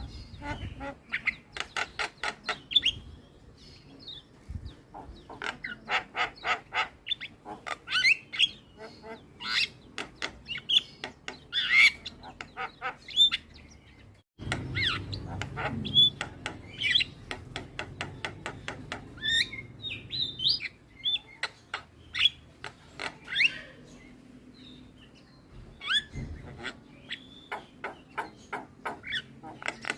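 Javan mynas calling: rapid chattering runs of harsh clicking notes mixed with short whistles and squawks, with a brief break about halfway through.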